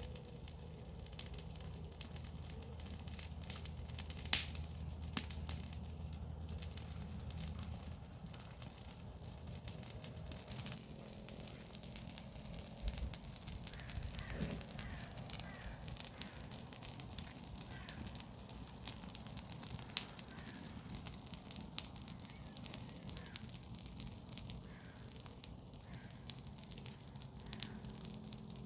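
Garden-waste fire crackling and popping, with irregular sharp snaps of burning wood and leaves. A bird calls repeatedly in the background through the second half.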